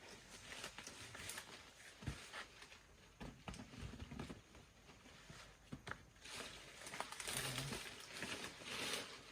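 Leaves and stalks rustling and crinkling, with scattered light snaps and knocks; the rustling is heavier for a few seconds near the end.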